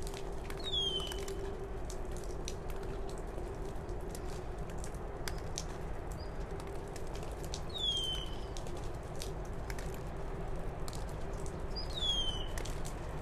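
A bird calls three times, each a short whistle sliding downward in pitch. Small sharp clicks of steel bonsai scissors snipping plant roots come throughout, over a steady hum.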